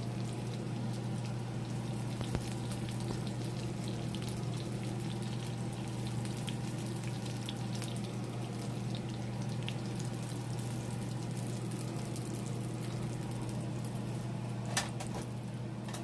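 Breaded chicken breasts sizzling and crackling steadily as they pan-fry in hot olive oil, over a steady low hum, with a couple of sharper clicks near the end.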